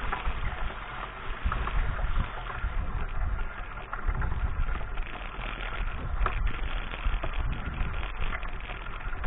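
Mountain bike riding on a dirt track recorded on an action camera: a steady low rumble of wind on the microphone and tyres on the ground, with frequent small rattles and knocks from the bike.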